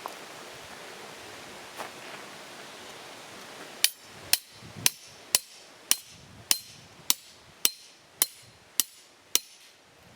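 Hammer driving a tent peg into the ground: about eleven sharp, ringing strikes, roughly two a second, starting about four seconds in.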